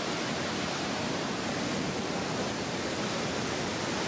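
Steady rushing of High Falls, a waterfall pouring through a rock gorge.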